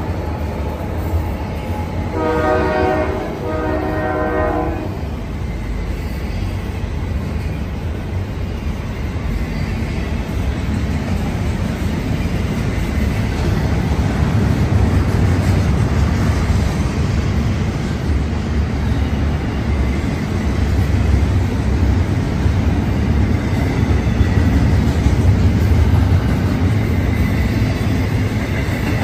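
Union Pacific double-stack intermodal freight train rolling by: a steady low rumble with wheel clatter from the container cars, growing louder in the second half. About two seconds in, a multi-chime locomotive horn sounds two short blasts.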